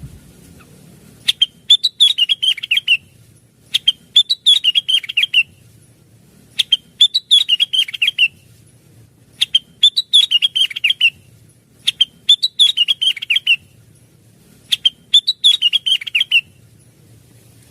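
Lesser green leafbird (cucak wilis) singing the same quick, chattering phrase six times, each phrase about a second and a half long and opening with a sharp high note, repeated every two to three seconds.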